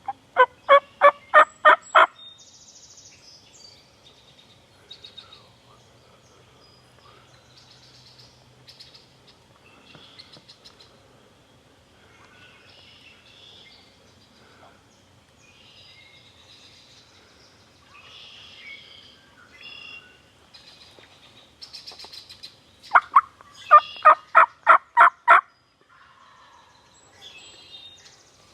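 Turkey calling: a loud run of about eight quick pitched notes near the start and another about 23 seconds in. Faint songbird chirps in between.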